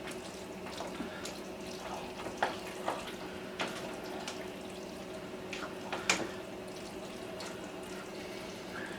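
A spoon stirring and scraping in a pot of chunky chicken pot-pie filling, with scattered light clicks and taps, over a steady low hum.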